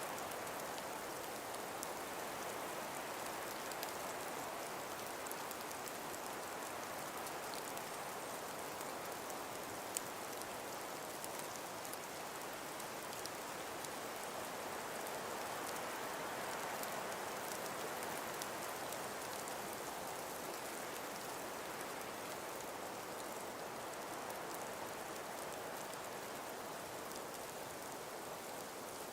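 Calm breeze through frost-covered forest trees: a steady, even hiss with faint scattered ticks and one sharp click about ten seconds in.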